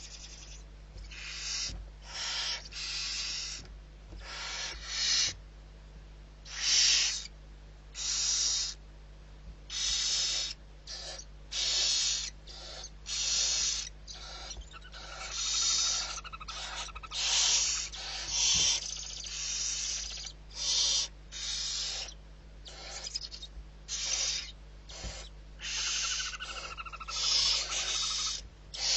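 Barn owl giving a long series of hoarse hissing calls, each lasting under a second, repeated roughly once a second. A faint steady low hum runs underneath.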